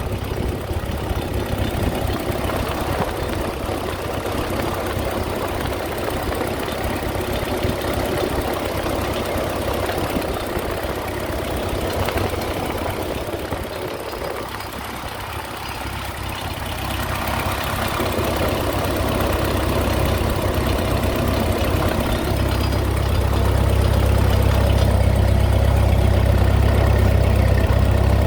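Ford 8N tractor's four-cylinder flathead engine running steadily with a strange noise the owner cannot account for. It grows louder from about the middle on, with a strong low hum over the last few seconds.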